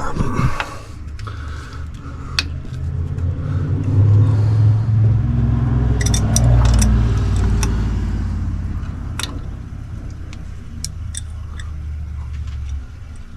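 Chrysler 245 Hemi inline-six engine running with a deep, steady rumble. It swells for a few seconds from about four seconds in, then eases off and drops lower near the end. Several sharp metallic clicks are heard over it.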